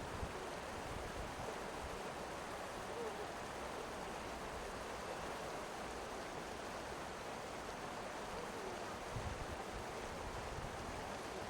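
Steady rushing of a mountain river, an even wash of water noise. A few low buffets of wind on the microphone come near the end.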